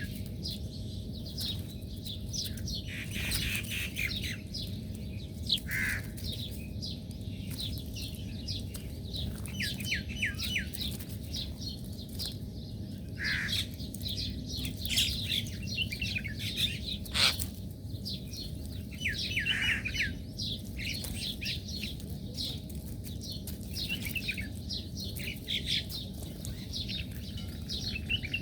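Small birds chirping and twittering continuously in quick, short, high notes, several calls overlapping, over a steady low background hum.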